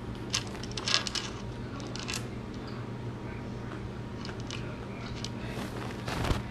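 Close-miked eating: biting and crunching into crispy fried chicken flautas, with scattered short crackles and a louder crunch about a second in and again near the end, over a steady low hum.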